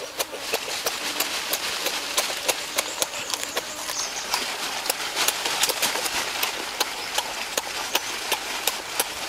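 Close-up eating sounds: chewing and lip-smacking with irregular sharp crunchy clicks, several a second, as a raw carrot slice is bitten and chewed.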